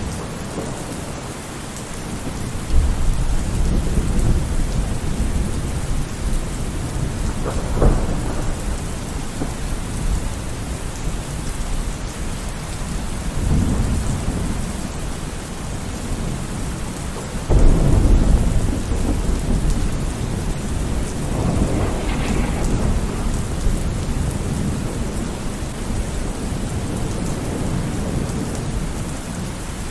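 Steady rain falling through a thunderstorm, with repeated rolls of thunder: deep rumbles about 3, 8, 13, 17 and 21 seconds in, the ones at about 3 and 17 seconds the loudest.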